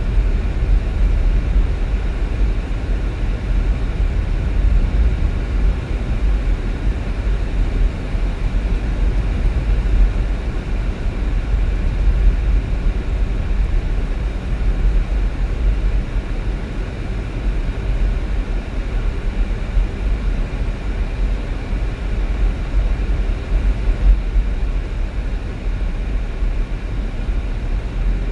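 Car driving on the road, giving a steady low rumble of road and engine noise.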